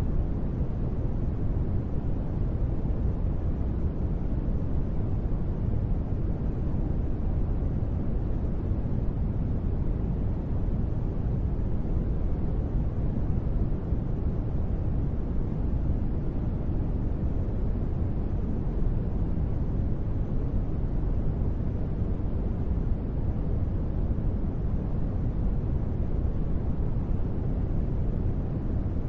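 Steady sleep-noise track of rain ambience: an even, deep hiss weighted to the low end, unbroken, with no distinct drops or changes.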